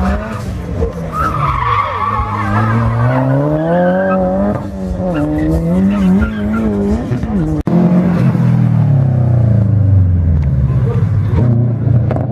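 Mitsubishi Lancer Evolution race car's engine revving hard up and down through the gears as it is driven through the corners, with its tyres squealing briefly early on. After a sudden break about seven and a half seconds in, a second car takes over, a blue Subaru Forester, its engine running under steady throttle.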